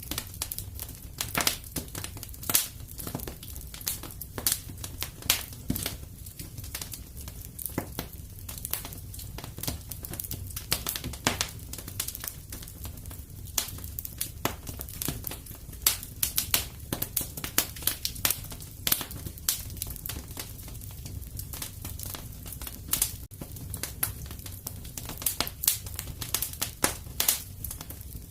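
Wood fire crackling and popping in a fireplace: a steady low rumble of flames under frequent irregular sharp pops and snaps.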